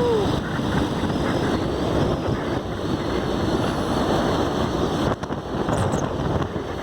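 Wind rushing steadily over the microphone of a moving vehicle. A short pitched call that rises and falls sounds right at the start.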